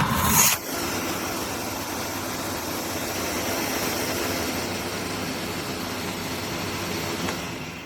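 Hoover H-Energy 300 corded cylinder vacuum cleaner running with a steady, even noise, after a short louder rush at the start; the sound fades away near the end.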